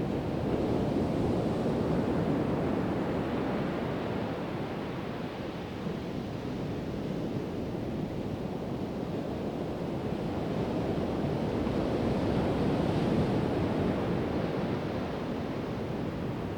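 Pacific Ocean surf breaking on a sandy beach: a steady wash of waves that swells and ebbs, cresting a couple of times, with some wind noise on the microphone.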